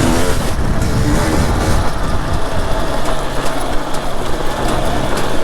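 Enduro dirt bike engine working hard under the rider, with revs rising and falling for the first couple of seconds and then settling into a steadier note about halfway through.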